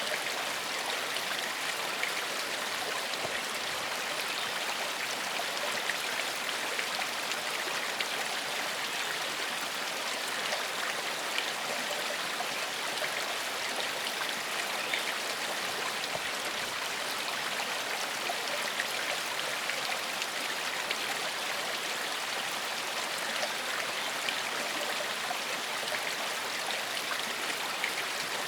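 A gentle forest stream flowing and splashing steadily over rocks, an even rushing hiss with small splashes and trickles in it.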